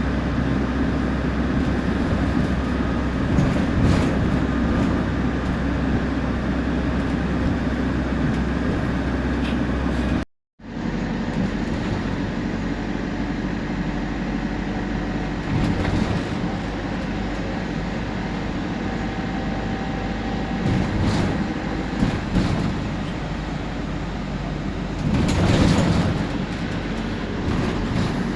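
Temsa Prestij SX midibus running on the road: a steady engine and drivetrain drone with a few short knocks and rattles. The sound cuts out completely for a moment about ten seconds in.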